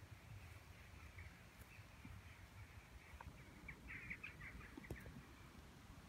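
Faint small birds chirping, with a quick run of short chirps about four seconds in, over a low, even background rumble.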